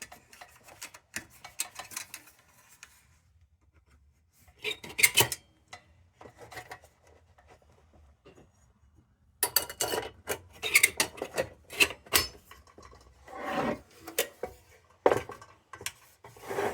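Intermittent scraping, rubbing and sharp clicks of glass and tin as a Dietz Fitzall glass globe is handled and fitted into a tin lantern's globe frame, in several separate bursts with quieter pauses between.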